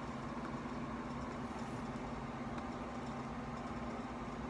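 A steady, unchanging machine hum with a low tone, with one or two faint ticks.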